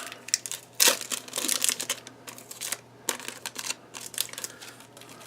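2017 Topps Gallery baseball cards being flipped and slid through the hands: an irregular run of soft clicks and rustles, the sharpest click a little under a second in.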